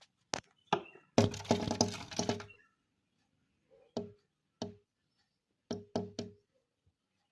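A bird pecking at a glass window pane: two sharp taps, then a rapid flurry of taps lasting about a second, then five more single taps spaced out, some in quick pairs.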